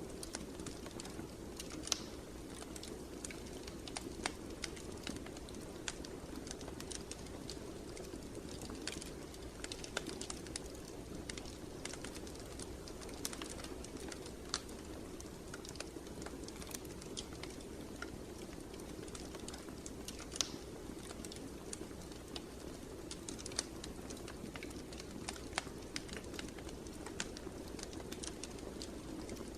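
Wood fire crackling in a fireplace: irregular sharp pops and crackles over a steady low rush.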